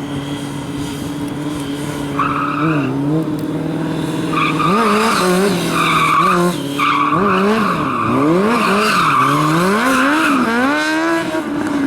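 A drifting vehicle's engine, steady at first, then revved hard up and down over and over from about halfway, with tyres squealing in long stretches from about two seconds in. The engine settles near the end.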